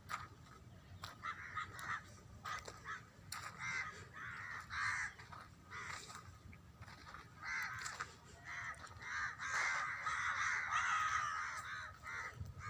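Birds calling: a string of short, harsh calls one after another, building to a longer run of overlapping calls near the end.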